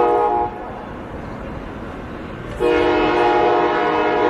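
Locomotive air horn sounding: a short blast that cuts off about half a second in, then after a two-second gap a long, loud blast of the same steady multi-note chord.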